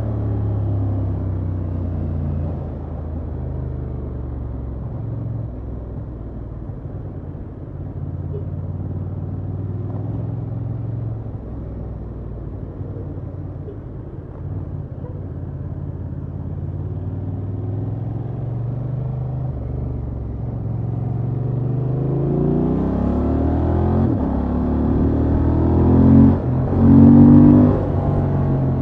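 Honda XL750 Transalp's parallel-twin engine through its stock exhaust: revs easing off and running fairly steady, then climbing repeatedly through the gears near the end, loudest at the last pull with a quick break for a shift.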